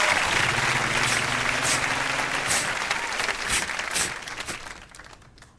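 Studio audience applauding, the clapping dying away over a few seconds.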